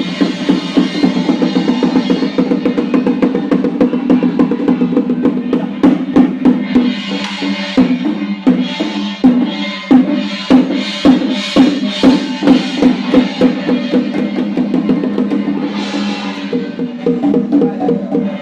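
Chinese temple ceremonial music: drums and cymbals beating over a steady held melodic tone. The strikes come thickest in the middle, with cymbal crashes there and again near the end.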